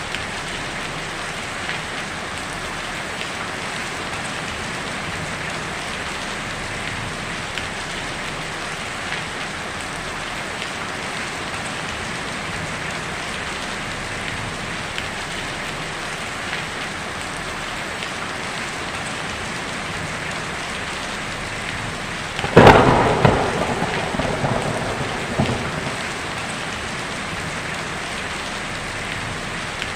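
Heavy rain drumming steadily on a tin roof, with small scattered drop ticks. About three-quarters of the way through, a sudden loud thunderclap cracks and rumbles away over a few seconds.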